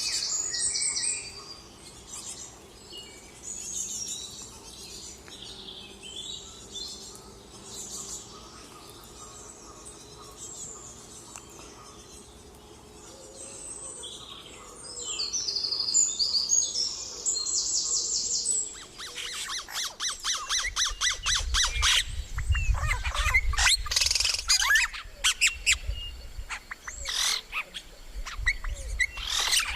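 Songbirds chirping and singing, with high, fast trills now and then. About two-thirds of the way in, a dense run of rapid clicking and rattling starts up over a low rumble.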